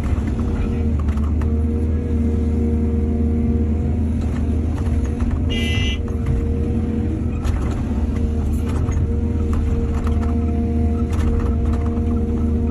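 Excavator diesel engine running steadily under load, with scattered clanks and knocks from the digging and loading and a brief high-pitched squeal about halfway through.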